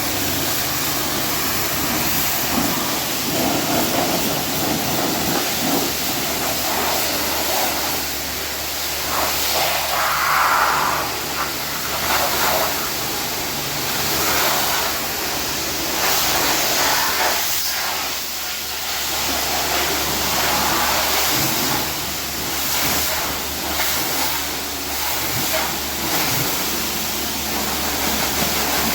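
High-pressure washer spraying water, a continuous hiss that swells and fades as the spray moves, over a steady low hum.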